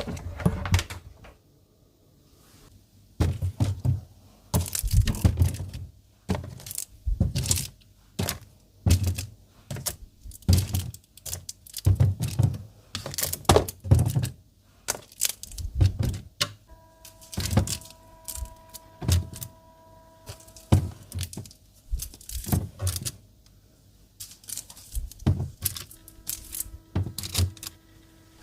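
Food items and storage containers being set down and shuffled about in a refrigerator: a string of separate knocks and thunks, several every couple of seconds, with short pauses between.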